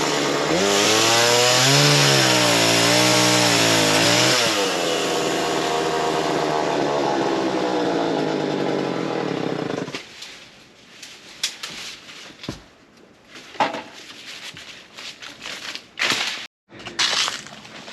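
Small chainsaw running and cutting wood, its pitch wavering under load for the first few seconds, then running steadily until it stops about ten seconds in. After it stops come scattered sharp cracks and snaps of wood and debris.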